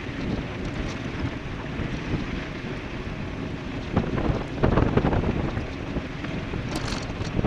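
Wind buffeting the microphone of an e-bike-mounted or rider-worn camera at speed: a steady rushing rumble that swells louder about four to five seconds in.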